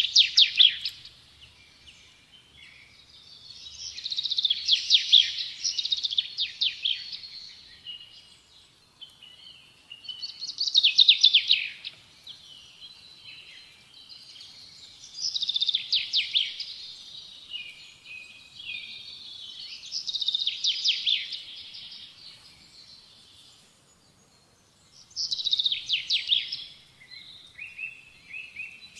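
A songbird singing: about six bursts of rapid high chirps and trills, each a second or two long, every four to five seconds.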